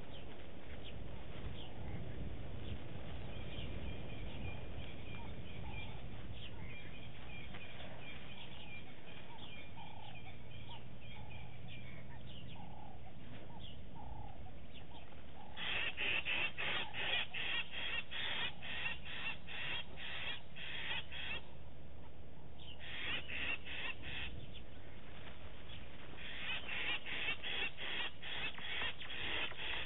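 Wild birds calling: high whistled notes through the first half, then a loud run of repeated calls, two or three a second, in three bouts from about halfway, over a faint steady low hum.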